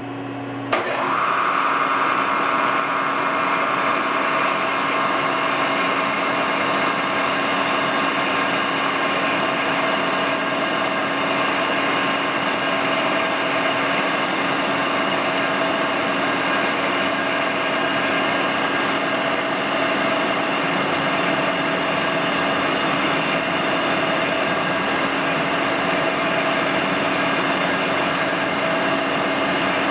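Spindle of a 1993 Hurco KM3-P CNC vertical knee mill starting up suddenly about a second in and then running steadily through a CNC program, a steady whine over an even mechanical hum.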